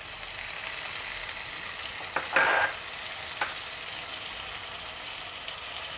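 Onion, tomato and spice masala frying in oil in a kadhai, a steady sizzle. A few short clatters break in about two to three and a half seconds in, the loudest near the middle.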